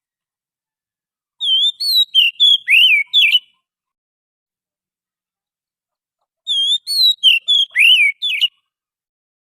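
Oriental magpie-robin (kacer) song played as a bird-trapping lure call: a phrase of clear whistled notes sliding up and down, about two seconds long, heard twice in the same form with silence between.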